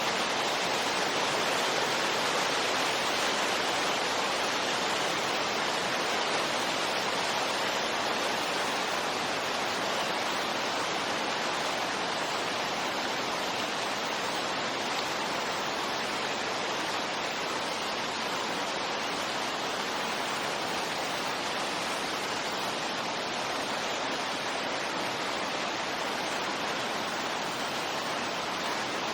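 Steady wind noise used as white noise for sleep: an even rushing hiss with no gusts or breaks.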